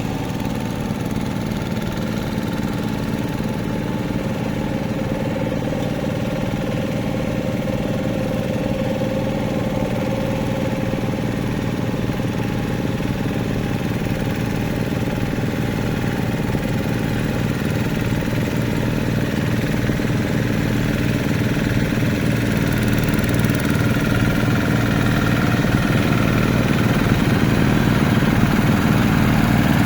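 Hand tractor engine running steadily with an even firing pulse, growing gradually louder through the stretch.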